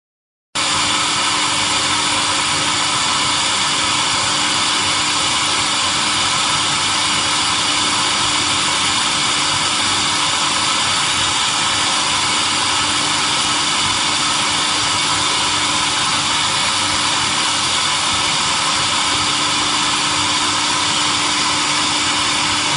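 Automatic pole welding machine running: a loud, steady hiss with a constant low hum underneath. It starts abruptly about half a second in and keeps on without change.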